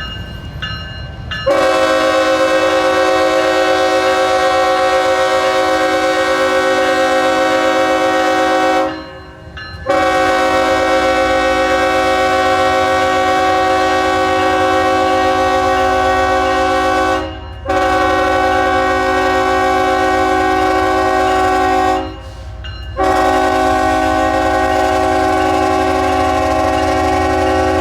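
Diesel locomotive's multi-chime air horn sounding several notes at once in four long, loud blasts with short breaks between them. The low rumble of the locomotive's engine runs underneath.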